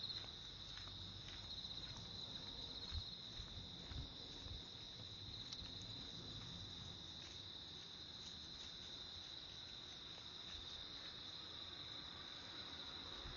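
A steady, high-pitched chorus of insects chirring without a break, with a few soft low thumps about three and four seconds in.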